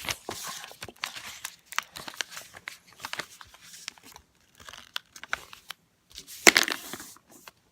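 A sheet of paper being folded and creased by hand into a paper airplane, with scattered crinkles and rustles and a louder crackle about six and a half seconds in.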